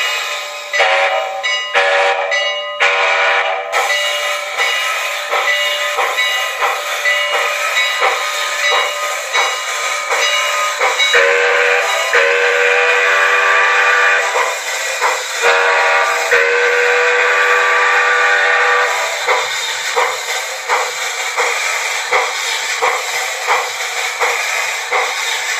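TCS WOW Sound decoder in an HO-scale CPR Mikado steam locomotive model playing steam chuffing at a steady beat, with short whistle toots in the first few seconds and two long whistle blasts in the middle. The sound is thin, with no bass, as from a small onboard speaker.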